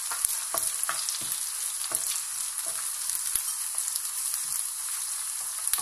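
Chopped onions, garlic and green chillies sizzling in hot oil in a wok, with a steady hiss, stirred with a wooden spatula that knocks and scrapes against the pan every half second or so.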